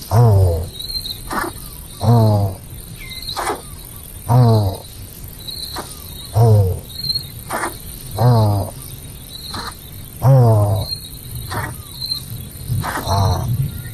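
An animal calling over and over, a loud call falling in pitch about every two seconds with a short sharp note between calls, over steady chirping of insects.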